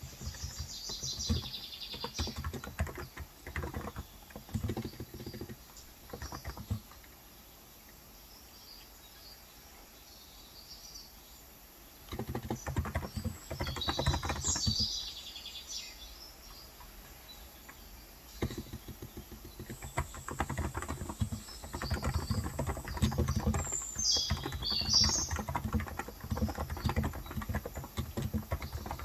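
Typing on a Cox Endeavour electrostatic capacitive (non-contact) tenkeyless keyboard with 35 g switches, in bursts of rapid key clicks with a pause of several seconds in the middle. Birds chirp in short high calls about three times over the typing.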